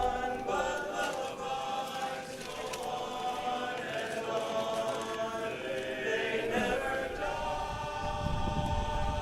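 Men's chorus singing a cappella, holding chords that shift every second or so.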